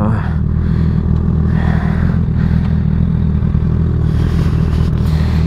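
Honda sportbike engine idling steadily in neutral, a low, even hum.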